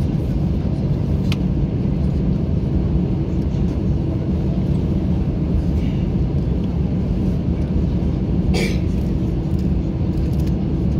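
Steady low rumble inside an Airbus A321-200's cabin while taxiing, engines at low thrust with a constant hum. A brief click comes about a second in, and a short rattle about three-quarters of the way through.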